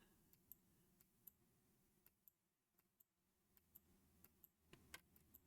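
Near silence with a few faint, sharp clicks from a computer mouse, scattered and a little more frequent near the end.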